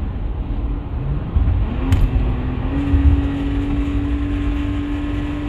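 Subaru Tribeca 3.0-litre flat-six engine under full throttle, heard from inside the car: its pitch rises about two seconds in, then holds steady as the car fails to pick up speed. Beneath it is the rattling 'marble sound', a sign of a restricted exhaust, here a broken-up catalytic converter.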